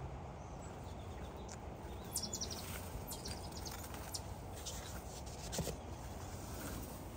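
Birds chirping in short calls, a quick series about two seconds in, over a steady low background rumble.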